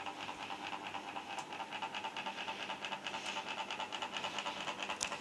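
Camel mini ceiling fan running, a steady hum and whine with a fast even pulsing of about five beats a second, and one brief click near the end.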